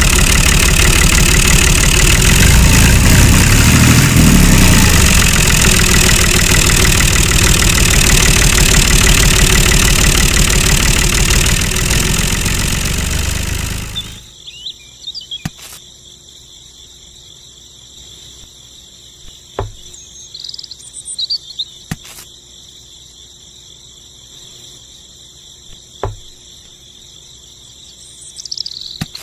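A loud motor running, which cuts off abruptly about fourteen seconds in. Then crickets chirping steadily, with a few faint clicks.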